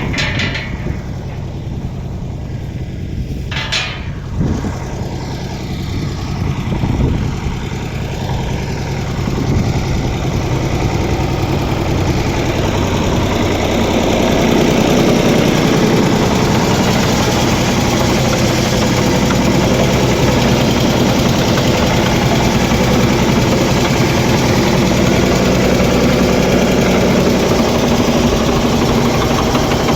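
1970 Ford tractor's engine running steadily, with a few short knocks in the first seconds; it grows louder and rougher about a dozen seconds in.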